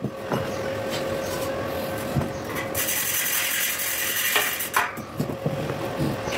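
A hand tool scraping slag and spatter off a fresh stick weld on a steel square-tube corner joint, with a harsh rasping sound and a couple of sharp knocks near the middle.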